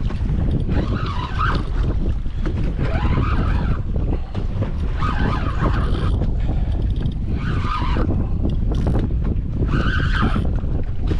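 Strong wind buffeting the microphone on an open boat, a loud steady rumble, with a higher rasping noise coming back about every two seconds.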